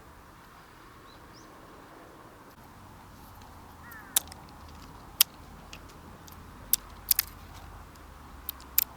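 A crow caws once, faintly, about four seconds in, over a steady background hiss. It is followed by a scatter of sharp clicks or pops, about seven, some in quick pairs, which are the loudest sounds.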